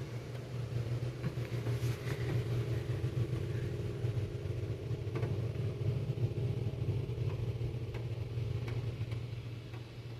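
Automatic car wash running, heard from inside the vehicle as a steady low mechanical hum and rumble with a few light taps; it swells through the middle and eases off near the end.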